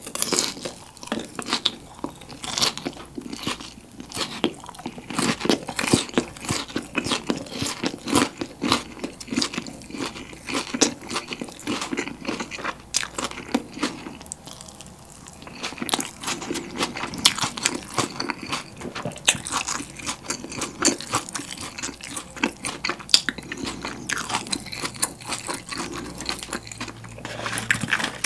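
Close-miked, crunchy chewing of a mouthful of fried boneless chicken with shredded green onions: dense, irregular crackling bites, with a short lull about halfway through before the chewing picks up again. The crunching is loud and pronounced.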